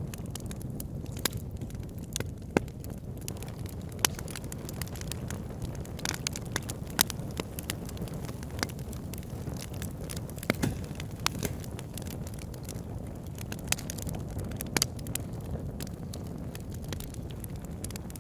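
Fire burning in a fireplace, crackling: sharp, irregular pops and snaps over a steady low rumble of flame.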